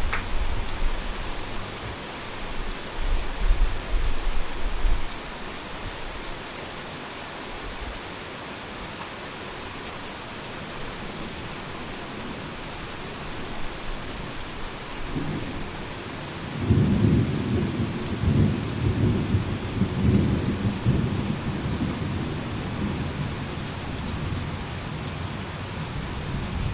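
Heavy rain falling steadily, with a short deep roll of thunder a few seconds in. A little past halfway a longer, louder thunder rumble builds, peaks and slowly dies away under the rain.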